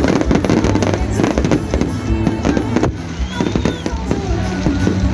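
Fireworks going off in a dense series of rapid bangs, with music playing underneath.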